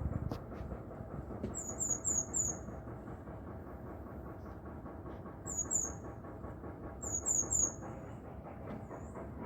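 A small bird's high, sharp chirps in quick runs of two to four, heard three times over a steady low rumble of background noise.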